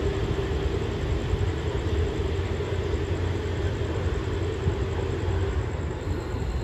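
Diesel train running with a steady low rumble and a held hum.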